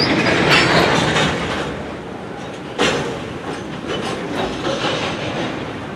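Freight cars of a mixed freight train rolling past: a steady rumble of steel wheels on rail, with louder knocks about half a second in and again near three seconds as the trucks cross rail joints.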